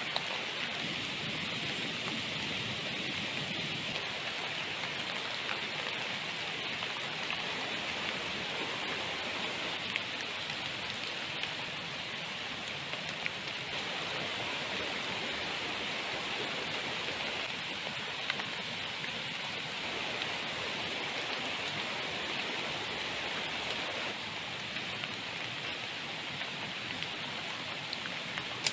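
Heavy rain falling steadily in jungle, a continuous even hiss with a few sharper drop hits now and then.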